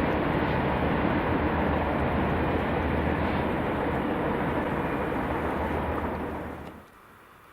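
Freight train rolling past: a steady rumble of wheels on rail, dropping away sharply about six and a half seconds in.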